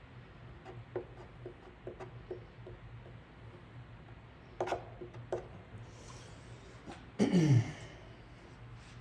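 Scattered light clicks and taps, two of them sharper, over a steady low hum; about seven seconds in, a short loud throat clearing with a steeply falling pitch.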